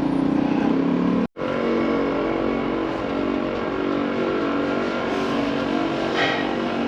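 Royal Enfield motorcycle engine running steadily, with a brief gap in the sound about a second in.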